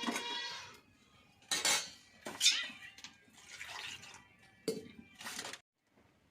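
Metal cooking pots and utensils clanking and scraping: a ringing clang at the start, then about five separate knocks and scrapes, cut off abruptly near the end.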